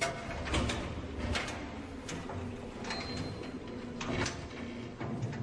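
Slow, irregular footsteps on a metal walkway, with knocks and creaks from the metal structure, over a low steady hum. A brief thin high squeal sounds about three seconds in.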